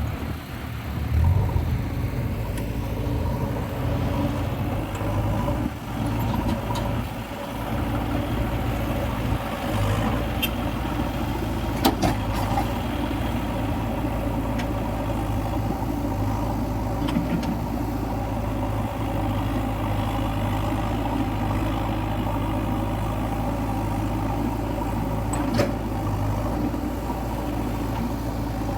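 Diesel engine of a JCB 3DX backhoe loader running steadily at a low, even hum, with a few sharp knocks a little after ten seconds in, around twelve seconds in and near the end.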